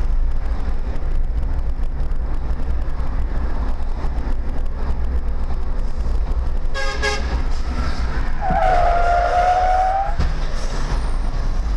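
Steady low rumble of a vehicle driving on the road. About seven seconds in, a car horn gives a short toot, then sounds again, held for about a second and a half.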